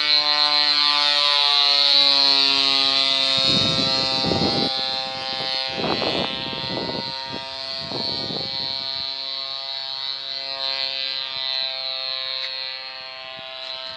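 Small two-stroke grass-cutter (brush-cutter) engine on a homemade fixed-wing aircraft, running at high throttle with a steady, high-pitched buzzing drone. Three short bursts of rough noise cut across it in the middle.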